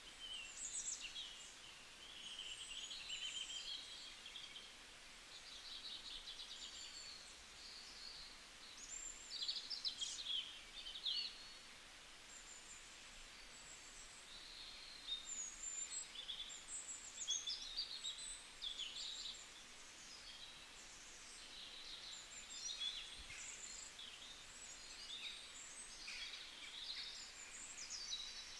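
Small birds chirping and twittering, many short sliding high notes coming one after another, over a faint steady hiss.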